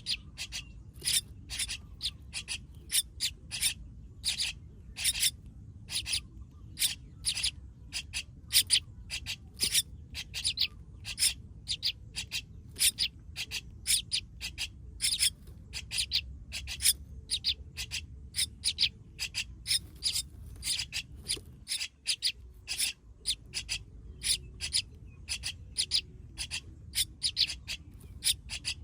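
A nestling bird calling over and over, short raspy chirps at about three a second: a chick's calls to its parent.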